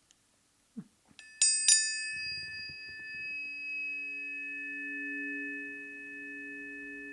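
Planetary tuning forks for Mercury and Uranus struck three times in quick succession about a second in, after a few faint handling clicks. Two low tones ring on steadily together, with their higher overtones, swelling and fading slowly.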